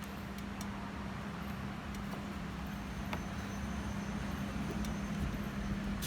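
Steady low background hum with noise, and a few faint ticks scattered through it.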